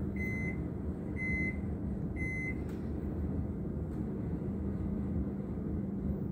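Vehicle reversing alarm beeping three times, about a second apart, over a steady low engine rumble.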